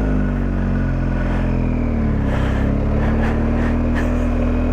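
Motorcycle engine running at low speed in town traffic, its pitch dipping and rising a couple of times in the first half, then holding steady.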